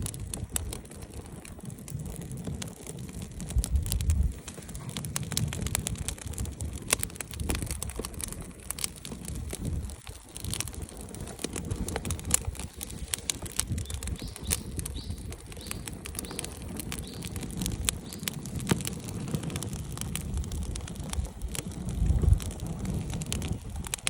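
Wood campfire crackling, with many small irregular pops and snaps over an uneven low rumble.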